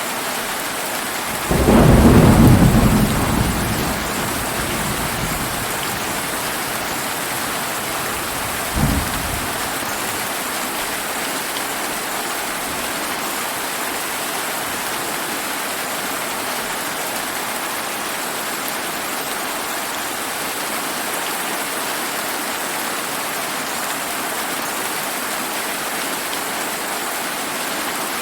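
Steady rain falling, with a loud low roll of thunder about a second and a half in that fades over two or three seconds, and a short, weaker rumble of thunder near nine seconds.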